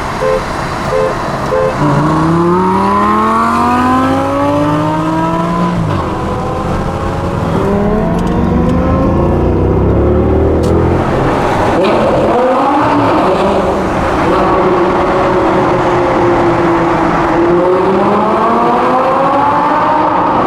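Lamborghini Gallardo LP560-4's V10 engine accelerating hard, its pitch climbing steeply about two seconds in and cutting back near six seconds, followed by more rises and falls in revs. A few short, evenly spaced beeps sound in the first two seconds.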